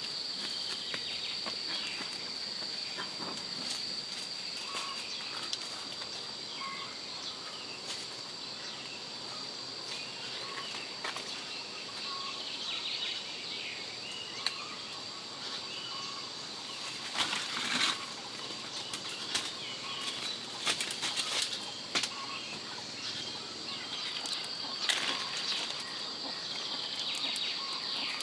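Forest ambience: a steady high-pitched insect drone with scattered faint bird chirps. Intermittent rustling and snapping of leaves and twigs are louder around the middle and near the end.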